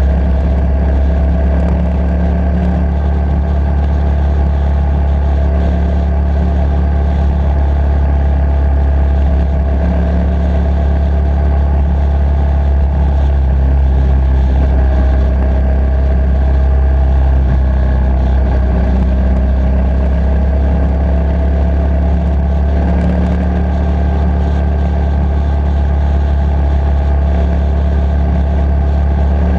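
Motorcycle engine running steadily at riding speed, its pitch rising and falling slightly with the throttle.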